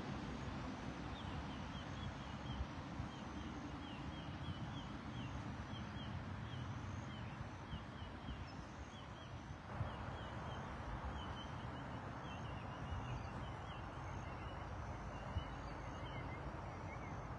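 Birds calling in quick runs of short, downward-sliding chirps and higher repeated notes, over a steady rushing background noise.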